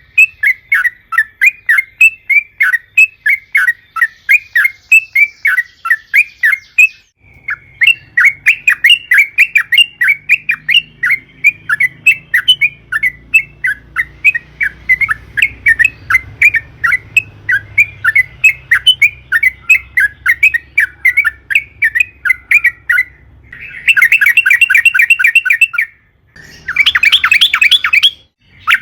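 Yellow-vented bulbul (trucukan) giving long runs of quick, repeated chattering notes, about four or five a second, breaking near the end into faster, louder rattling trills: the long 'ropel' calling used as a lure to make other trucukan call.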